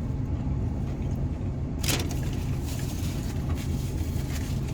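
Vehicle engine idling, heard as a steady low hum from inside the truck's cabin, with a brief rustle about two seconds in.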